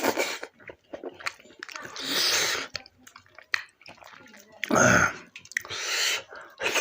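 Close-miked mouth sounds of a person eating soft maize-flour dhido: wet chewing and small lip smacks, broken by three louder breathy bursts of air, about two, five and six seconds in.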